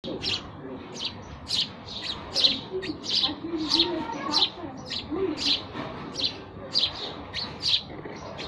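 Sparrows chirping: short, sharp chirps repeated about twice a second without a break.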